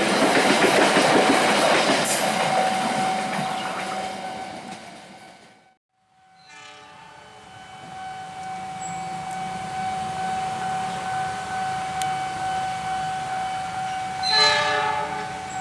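Passing train, loud and rattling at first and fading away over about five seconds. Then a steady high tone holds, and near the end a train horn sounds one short blast.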